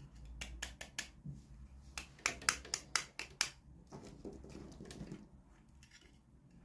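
Sharp plastic clicks and taps in quick clusters, with some softer rustling, from hands opening and handling small toy packaging.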